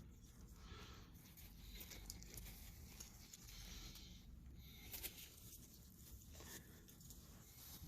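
Near silence: faint rustling and handling noise, with a soft click about five seconds in.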